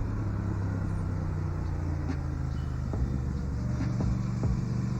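Vehicle engine running steadily at a constant speed, with a few faint clicks.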